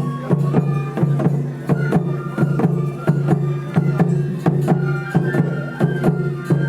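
Traditional Japanese festival music: drums beating a steady, quick rhythm under a flute melody.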